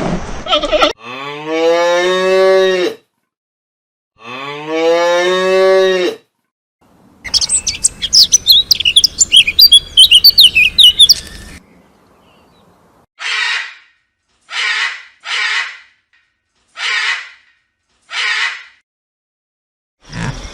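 A cow mooing twice, each moo rising in pitch. Then a spell of many small birds chirping at once, followed by five short, hoarse animal calls spaced about a second apart.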